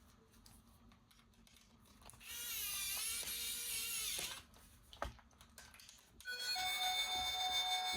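A small electric toy motor whirs for about two seconds with a wavering pitch, a few clicks follow, then a battery-powered toy's electronic tune starts about six seconds in.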